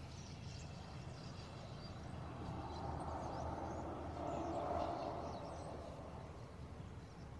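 Small birds chirping faintly and intermittently over a low steady hum, while a vehicle passes, swelling and fading with its loudest point about five seconds in.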